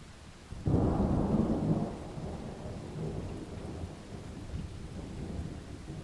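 A thunderclap breaks suddenly under a second in, loudest for about a second, then rolls on as a lower rumble over steady rain.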